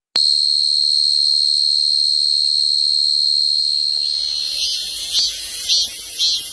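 A singing insect's shrill, steady trill, which about four seconds in breaks into regular chirps about twice a second.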